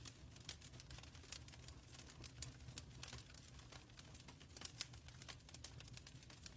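Wood fire burning in a fireplace: a steady low rumble with irregular crackles and pops, a few sharper ones standing out.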